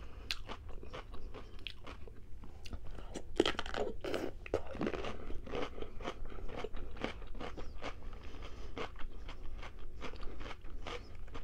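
Close-up crunching and chewing of a crunchy raw green vegetable, a steady run of irregular crisp crunches that is a little louder a few seconds in.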